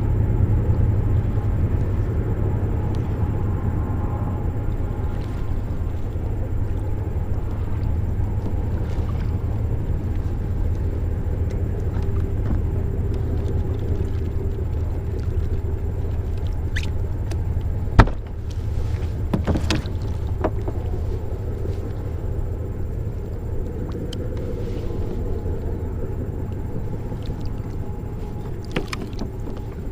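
Steady low rumble of wind buffeting the microphone on a drifting kayak, with a single sharp knock about 18 seconds in and a few lighter clicks after it.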